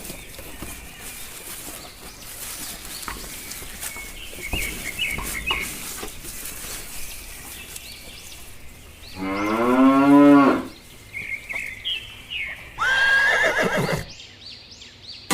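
A cow mooing twice, two long calls a few seconds apart, the second falling in pitch, with faint high chirps in between.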